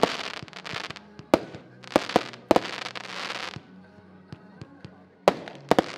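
Consumer firework battery (Diamond Hellfire) firing: irregular sharp bangs, several of them followed by about a second of dense crackle. There is a short lull in the middle before more shots and crackle near the end.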